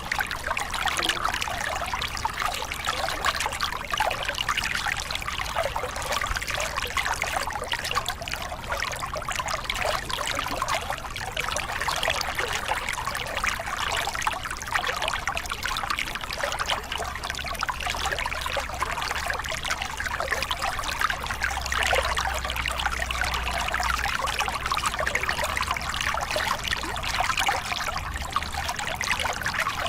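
Small river cascade: water pouring and splashing over rocks in a steady, unbroken rush with a constant bubbling trickle.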